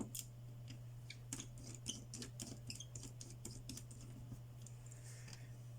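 Quick run of small, sharp clicks and ticks of a precision screwdriver and metal tools on a smartphone's internal frame as tiny screws are put back in, over a steady low hum.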